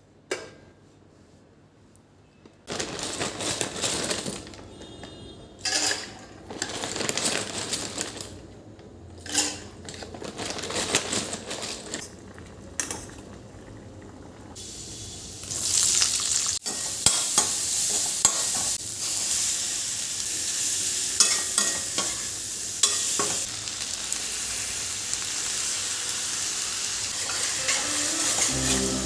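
Food frying in a pan, stirred and scraped with a spatula, with clinks of utensil on metal. It starts quietly, and from about halfway through a steady sizzle runs under the stirring.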